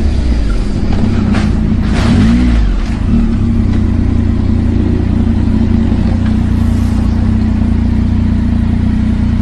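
A motor vehicle engine running steadily and loud, its pitch dipping and rising briefly about two seconds in.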